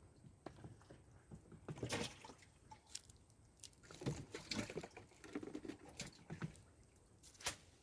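Water splashing and dripping in short, irregular bursts, mixed with scattered clicks and knocks, as a catch is handled at a fish trap in the water.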